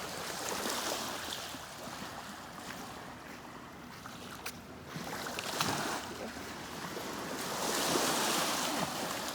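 Small lake waves washing onto a sandy, pebbly shore, swelling and falling back in about three surges, the loudest near the end.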